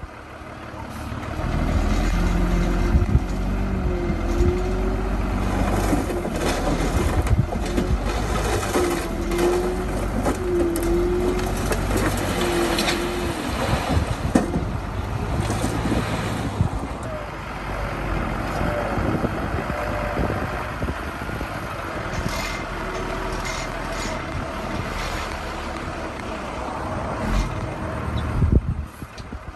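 Diesel engine of heavy earthmoving machinery working under load, with repeated metallic clanks and knocks and a few short squeaks in the middle part of the sound.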